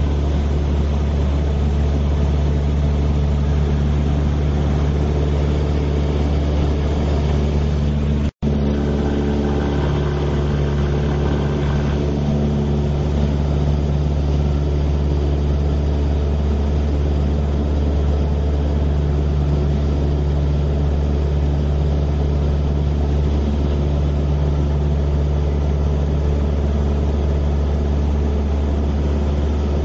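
News helicopter's engine and rotor heard from on board as a steady, loud low drone with a constant hum. The sound cuts out for an instant about eight seconds in.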